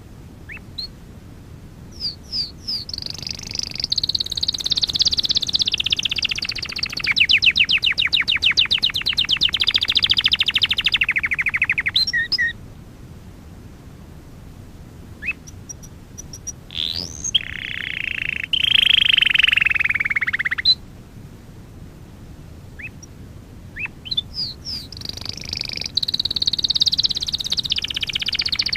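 Domestic canary singing in three long phrases separated by short pauses, with high whistled notes and fast rolling trills.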